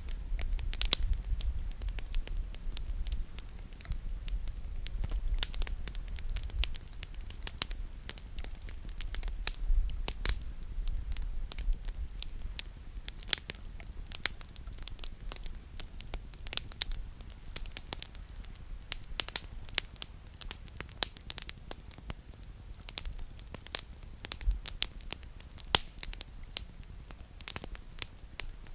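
Campfire crackling: burning firewood gives many irregular sharp pops and snaps over a low steady rumble.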